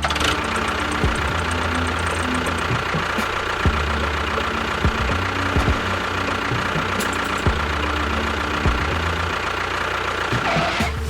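A small motor running steadily with a faint high whine. It starts abruptly and cuts off just before the end.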